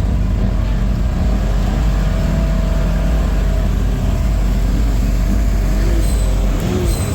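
Four-wheeler (ATV) engine running steadily under way, a deep rumble with its pitch wavering slightly.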